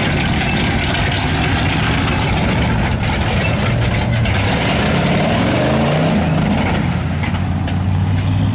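Big 4x4 mud truck engine running loud, its revs rising and falling about halfway through.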